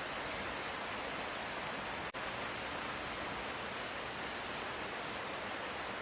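Steady light rain, an even hiss with no thunder, broken by a momentary gap about two seconds in.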